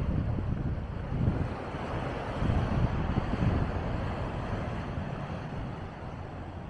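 Heavy ocean surf washing against the shore, with wind buffeting the microphone in gusts. The surf's hiss swells about two to four seconds in.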